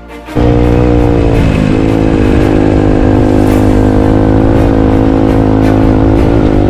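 Dirt bike engine running loud and steady under way, its pitch dipping briefly about a second and a half in as the throttle eases, then holding again.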